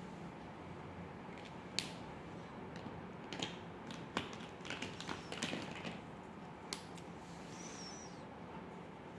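Scattered sharp clicks and taps of drawing tools being handled on a desk, over steady room noise, with a brief high squeak near the end.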